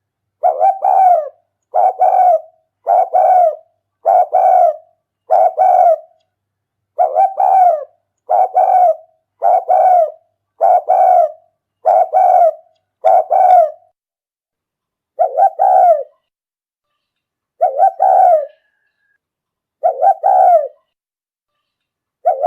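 Decoy spotted dove cooing in the rapid 'rút bổi' lure style: a run of short two-pulse coos about one every 1.2 s, which spaces out to about one every two seconds in the second half.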